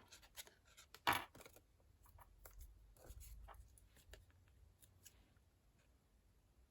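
Faint handling of card and paper on a craft desk: a sharp click about a second in, then soft rustling and a few light taps.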